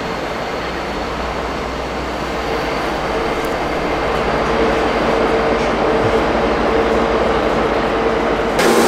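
A train running, a steady rumble with a humming tone that grows louder over the second half.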